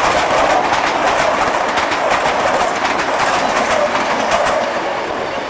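Passenger train coaches passing close by at speed: a loud, steady rolling rumble with a rapid clickety-clack of wheels over the rail joints. It eases off slightly near the end as the train moves away.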